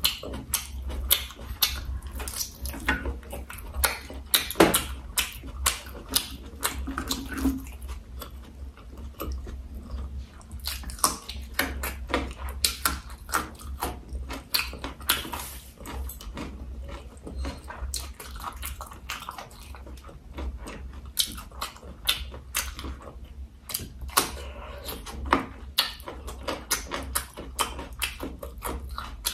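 A person chewing boiled cow penis, a chewy, gelatinous meat: many sharp mouth clicks and smacks come irregularly, several a second. A steady low hum runs underneath.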